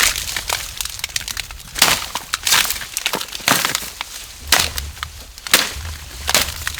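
Irregular sharp cracks and crunches, with a few louder snaps.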